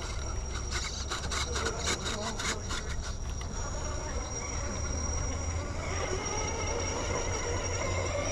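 Radio-controlled rock crawler's electric motor and gearing whining as it creeps over rock, with a run of quick scrapes and clicks in the first few seconds.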